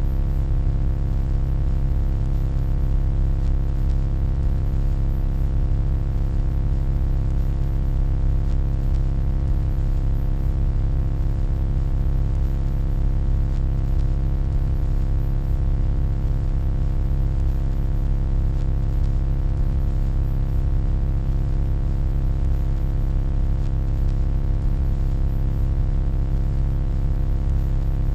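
Steady electronic hum: a deep low rumble with many steady overtones layered above it, unchanging, played as a sleep and focus noise.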